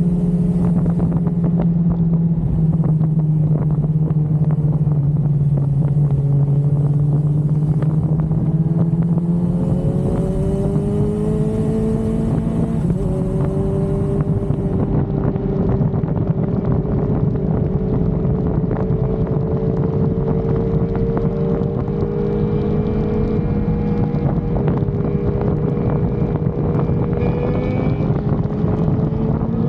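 Inline-four sportbike engine running at road speed under wind rush on the microphone. Its pitch climbs slowly and steps down about 13 seconds in, then holds fairly steady.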